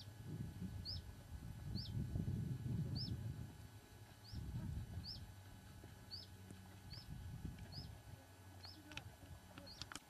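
A small bird calling over and over, each call a short high note that drops in pitch, a little more than once a second. Gusts of wind buffet the microphone with a low rumble, strongest in the first half, and there are a couple of sharp clicks near the end.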